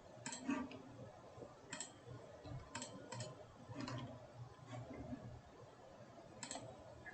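Computer mouse clicks, several scattered single clicks a second or so apart, over a faint low hum.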